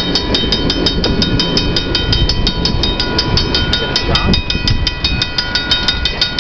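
Amtrak passenger cars rolling past with a low rumble, while a railroad grade-crossing warning bell rings rapidly and steadily, about seven strikes a second.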